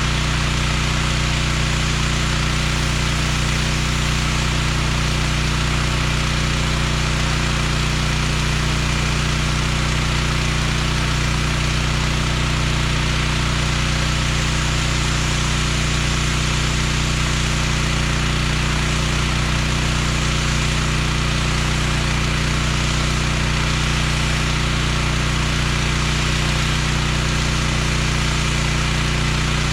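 Pressure washer's engine running steadily at constant speed, with a constant hiss over the engine drone.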